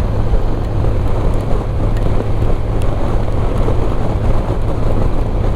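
Motorcycle engine running steadily at cruising speed with a low hum, under a steady rush of wind and road noise on the microphone.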